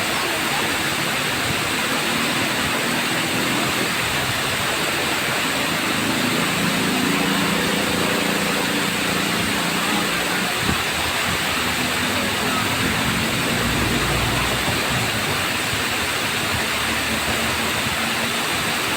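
Tamaraw Falls, a waterfall, pouring with a steady rushing noise. About a third of the way in, a faint low hum rises under the rush and fades again after the middle.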